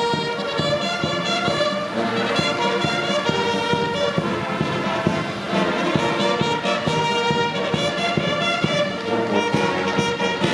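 A military band of brass and bugles playing loudly, with sustained brass notes over steady drum beats.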